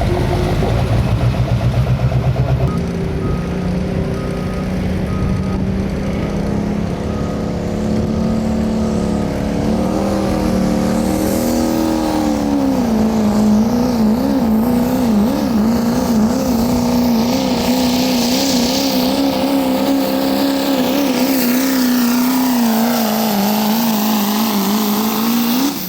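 Diesel pickup truck engine at full throttle pulling a sled. Its pitch steps up a few seconds in and climbs again midway, then holds at high revs with a quickly wavering pitch until it cuts off at the end.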